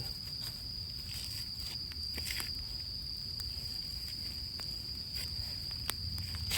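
A steady high-pitched insect trill, with a few sharp pops and crackles from a small campfire of rain-wet wood that has just been laid on to dry.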